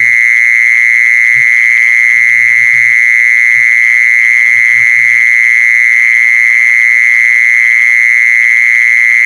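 Mole cricket singing a continuous high trill, one steady pitch with a fast fine pulse.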